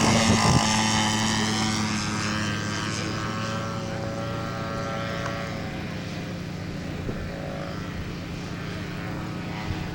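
Radio-controlled scale model airplane's propeller engine flying past: its pitch drops as it goes by near the start, then it drones on steadily, growing gradually fainter as it flies away.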